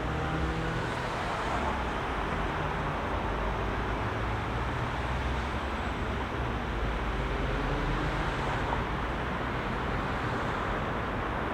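Heavy city traffic: a steady wash of car engines and tyre noise, with a low engine hum from passing vehicles.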